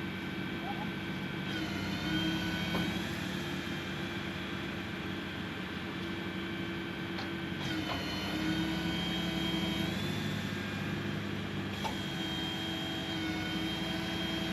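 Excavator's diesel engine running steadily under load, with a high whine over it that shifts in pitch a few times as the machine is worked.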